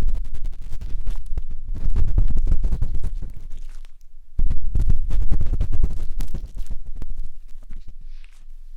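A matchstick rubbing and scratching inside the silicone ear of a 3Dio binaural microphone, close and crackly with a heavy low rumble. The strokes stop briefly about four seconds in, then resume and grow fainter near the end.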